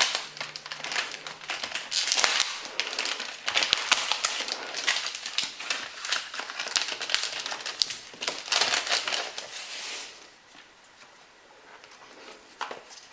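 Packaging crinkling and crackling as it is handled and unwrapped, dense for about ten seconds, then quieter with a couple of light clicks near the end.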